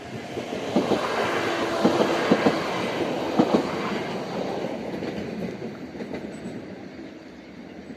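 Passenger train passing over a level crossing at speed: a rush of wheel and rail noise builds about a second in, broken by several sharp clacks as the wheels cross the rail joints, then fades as the train moves away.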